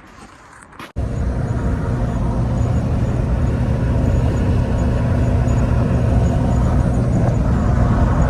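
Ford F-250 with a 7.3 diesel driving at steady speed: a loud, even drone of engine and road noise that starts abruptly about a second in, after a quiet moment with a few faint clicks.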